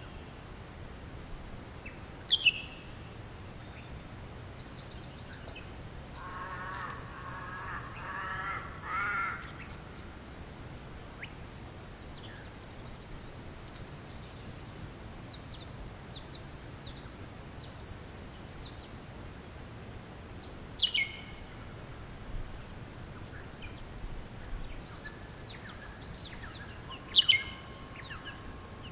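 Wild birds calling in bushland over a faint steady background. There are a few short, sharp high calls that drop in pitch, about two seconds in, near twenty-one seconds and again near the end. About six to nine seconds in come three drawn-out, lower, harsher calls like a crow's caw.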